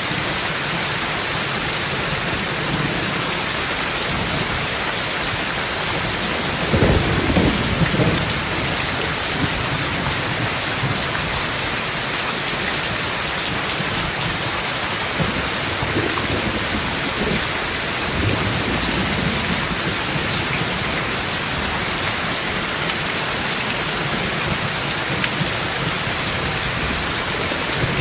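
Steady heavy rain falling, with a roll of thunder rumbling low about seven seconds in and fainter rumbles later.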